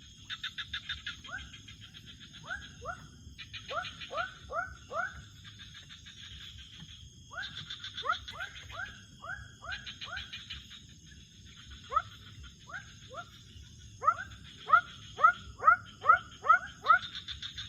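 Night-time animal calls: runs of short rising chirps, several a second, come in bouts and are loudest near the end. Rapid pulsing trills run on and off above them.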